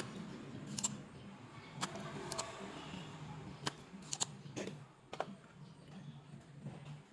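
Scattered light clicks and taps, about eight at irregular intervals, from small tools or parts being handled on a workbench, over a faint low hum.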